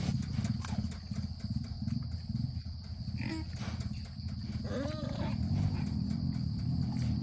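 Wild pig grunting continuously and roughly as it feeds, with a couple of short higher squeals near the middle.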